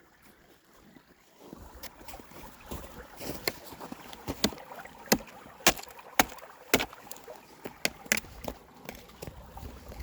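Footsteps of a person walking through the woods, with sharp crunches and snaps roughly one to two a second starting about two seconds in, over a low rumble.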